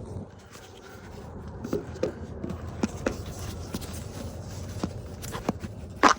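Camera handling noise: scattered light clicks and knocks as the camera is moved and repositioned, with one louder knock near the end.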